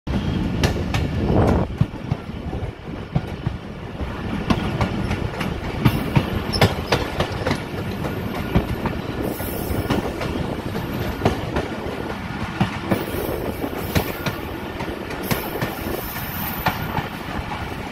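Pakistan Railways passenger coach running along the track, heard from its open window: a steady rumble with irregular clicks and clacks of the wheels over the rail joints.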